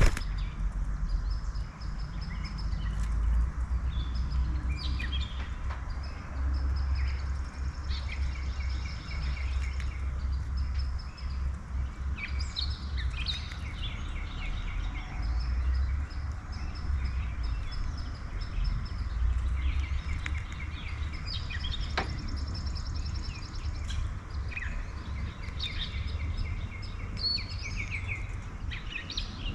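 Several backyard songbirds chirping and singing short trills throughout, over a steady low rumble.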